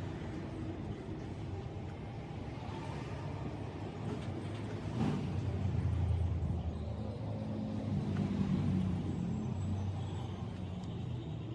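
Low steady rumble, swelling about five seconds in and easing off over the last few seconds.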